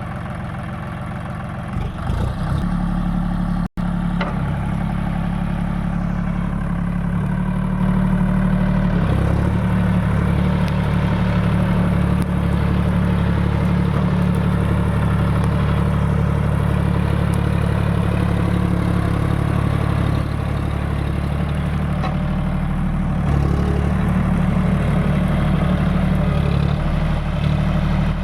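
John Deere 5050D tractor's diesel engine running steadily. The sound cuts out for an instant about four seconds in and is louder from about eight seconds in.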